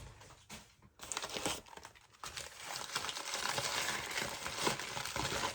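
Packing wrap crinkling and rustling as a wrapped piece is unwrapped by hand, starting briefly about a second in and becoming louder and continuous from about two seconds in.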